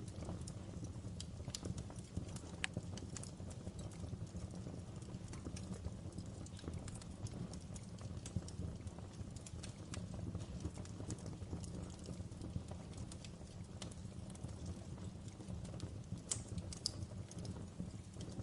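Wood fire crackling in a fireplace: a steady low rumble with scattered sharp pops and crackles at irregular intervals.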